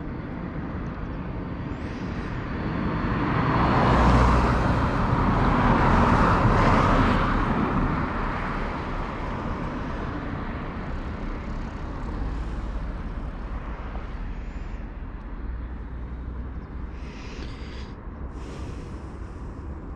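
A passing road vehicle: its noise swells over a few seconds and fades again, over a steady low rumble.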